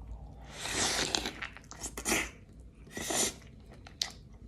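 A person eating a double-layer cheeseburger close to the microphone: three soft noisy bursts of chewing, about a second apart, and a short click near the end.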